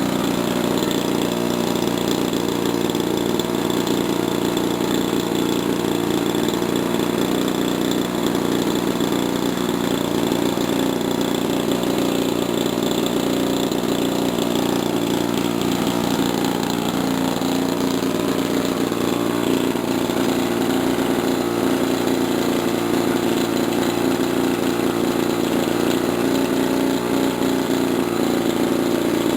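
DLE 30 single-cylinder two-stroke gasoline model-aircraft engine running steadily at an unchanging speed during its break-in run.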